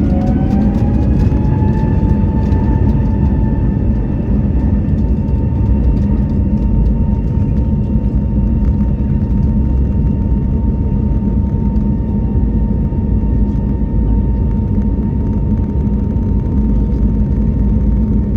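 Airbus A321neo engines spooling up, heard from inside the cabin: a whine rises over the first two seconds, then holds steady over a heavy low rumble. This is the thrust increase for the takeoff roll.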